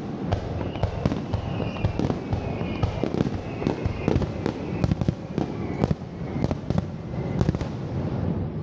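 Fireworks display: many sharp bangs of shells bursting in quick, irregular succession over a continuous low rumble of booms.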